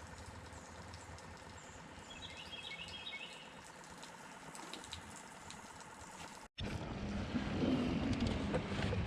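Songbirds chirping in short phrases over quiet open-air background. About six and a half seconds in, the sound cuts out for an instant and gives way to a louder, steady rushing noise.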